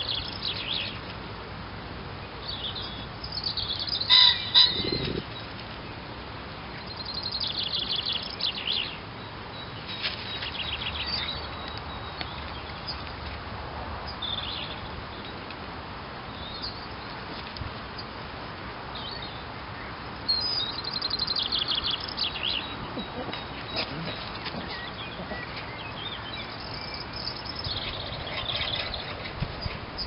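Small songbirds chirping in short phrases every few seconds, the loudest about four seconds in, over a steady outdoor background hiss.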